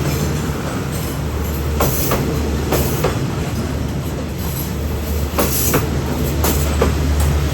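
State Railway of Thailand train running on the track: a steady low rumble with irregular sharp clacks of wheels crossing rail joints.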